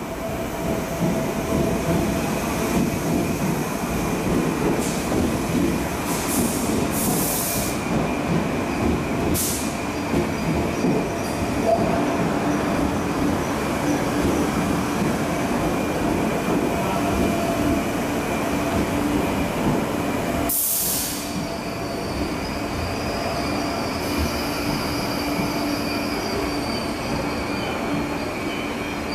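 MTR East Rail Line mid-life-refurbished Metro-Cammell electric multiple unit pulling slowly into a station platform: a continuous rumble of wheels and running gear with steady humming tones. A few short hisses come about a quarter, a third and two-thirds of the way through, and a thin high wheel squeal sets in near the end as it slows.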